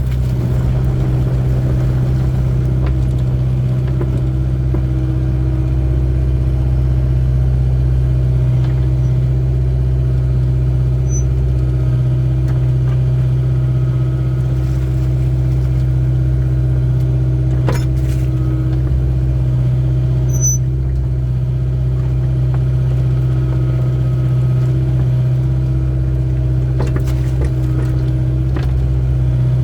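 Excavator's diesel engine running steadily, a constant low drone, with a couple of brief clicks partway through.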